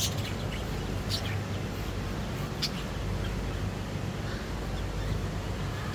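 Birds chirping now and then, a few short high calls, over a steady low hum.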